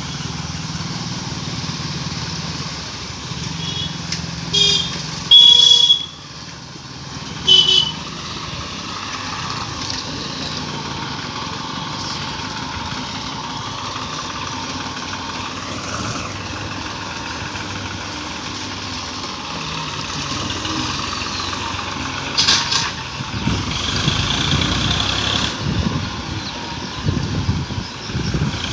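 Diesel tractor engines running steadily, with horns honking: a short blast about four and a half seconds in, a long loud one around five seconds, another near eight seconds, and more near the end.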